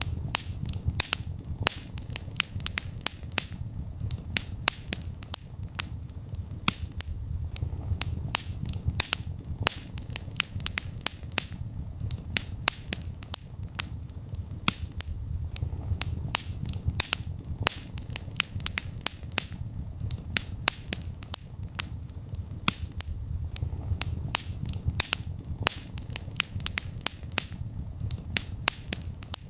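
Fireplace fire crackling: frequent, irregular sharp pops and snaps, several a second, over a steady low rumble of the flames.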